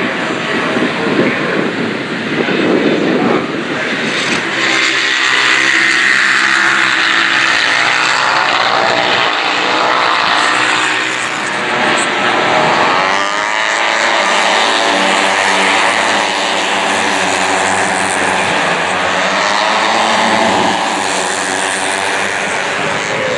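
Racing superbike engines at high revs as the bikes pass on track, the pitch climbing and falling again and again as they accelerate, change gear and go by one after another.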